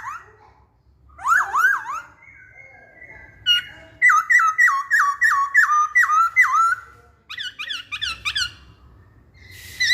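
A laughingthrush (poksay Hongkong) singing loud, clear whistled phrases. A short run of rising and falling notes comes about a second in, then a fast series of repeated down-slurred whistles at about two or three a second, then a higher, quicker series, with brief pauses between the phrases.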